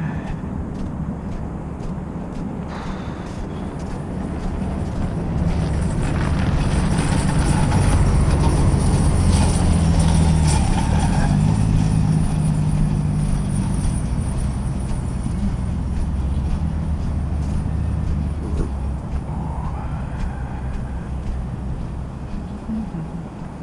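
Transit vehicle running with a low rumble that builds from about five seconds in, is loudest around ten seconds, and eases off toward the end.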